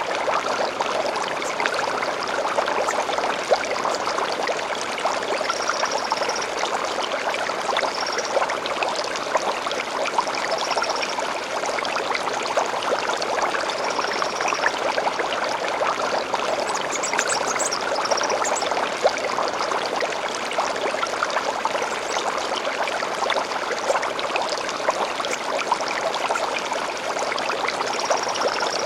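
Stream flowing steadily over stones, a continuous rushing trickle. Over it, a small songbird gives short high phrases every few seconds, with a quicker run of higher notes about seventeen seconds in.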